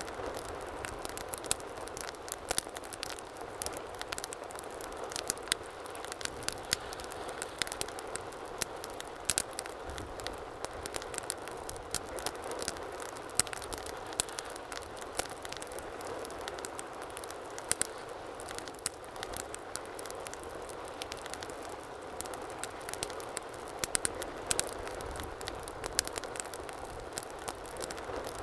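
Wood fire burning in a fireplace: steady low hiss with frequent irregular sharp crackles and pops.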